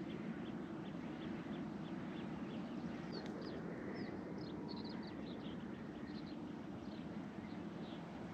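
Birds calling: many short, high chirps, several a second, over a faint, steady low background noise.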